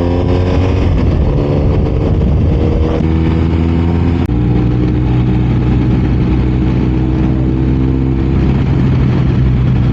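BMW R 1250 RS's 1254 cc boxer-twin engine pulling on the move. The engine note climbs, steps twice around three and four seconds in as the rider shifts up, then holds a steady cruise. Steady wind rush runs underneath.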